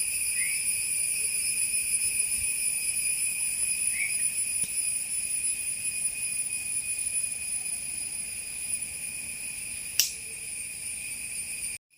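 Steady high-pitched insect chorus with a bright, ringing quality, and two short rising chirps early on. A sharp click comes about ten seconds in, and the sound cuts off suddenly just before the end.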